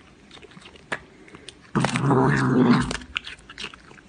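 A pet animal gives a drawn-out, low-pitched vocal call lasting about a second, starting just under two seconds in. A few faint clicks come before and after it.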